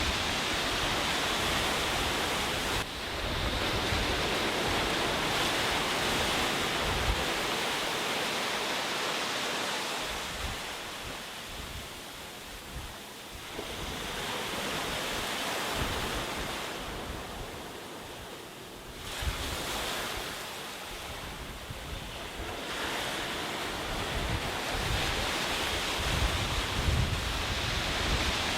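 Sea waves breaking and washing on a beach, the surf swelling and ebbing every few seconds. Wind buffets the microphone now and then with a low rumble.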